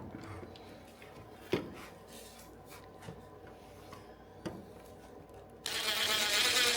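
A few light clicks and knocks of tools being handled, then, a little over two-thirds of the way in, a power drill starts suddenly and runs, growing louder, as it drills a pilot hole through a steel fender hinge.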